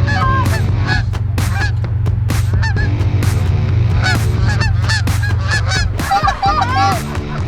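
Goose honks and clucks in quick succession, many calls overlapping, over a steady low hum that drops out about six seconds in.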